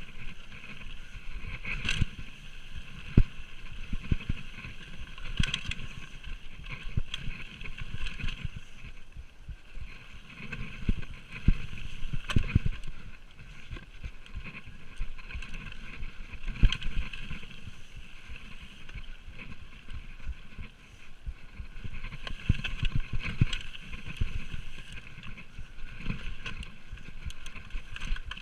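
Orange Five 26-inch full-suspension mountain bike ridden down a rough trail. Tyres rumble over dirt and roots, with frequent sharp knocks and rattles from the bike, and a steady rush of wind on the microphone.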